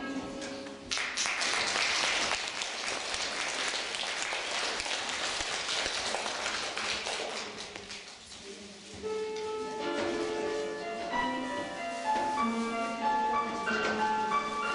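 The choir's last sung chord ends, and an audience applauds for about seven seconds. The applause fades, and about nine seconds in an instrumental introduction begins, playing a melody in held notes.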